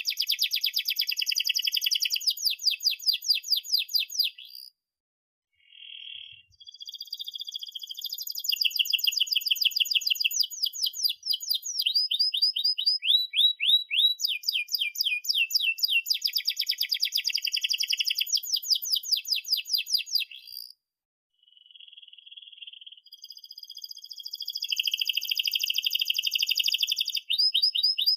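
Domestic canary singing long, fast rolling trills of rapidly repeated chirps, each phrase a quick run of sweeping notes. The song breaks off briefly twice, about five seconds in and again about twenty-one seconds in, then resumes.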